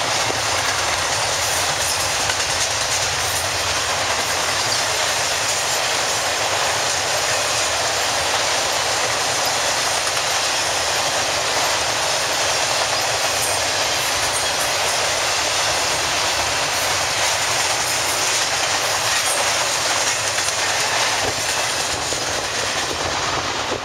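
Intermodal freight train of piggyback trailers and containers rolling past at speed: a steady, loud noise of steel wheels on rail, with faint fine clicks over the top. It cuts off suddenly at the very end.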